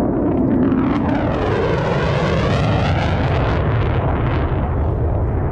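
Jet military aircraft flying past in a low pass: a loud, steady jet-engine rush, with a sweeping, phasing whine as it goes by over the first few seconds.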